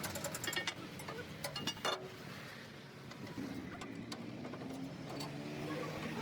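A rapid series of light sharp clicks and knocks for about two seconds, then a motor vehicle engine running steadily.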